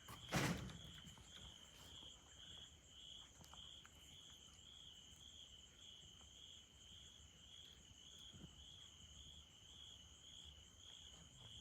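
An insect chirping faintly, a high, even pulsing song repeating about twice a second. A short soft knock comes about half a second in.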